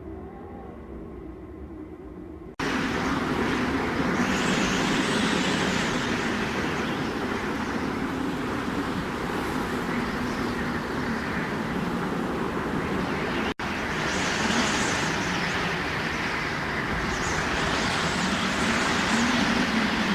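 Blizzard wind blowing hard in gusts that swell and ease. It jumps from a quieter blow with faint low whistling tones to full strength about two and a half seconds in, and cuts out for an instant around the middle.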